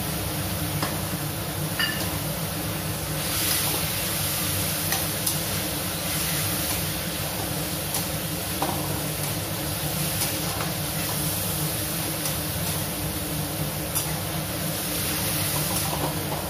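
Chopped tomatoes and onion masala sizzling in a steel kadhai while a spatula stirs them, with scattered light clicks and scrapes of the spatula on the metal pan. A steady low hum runs underneath.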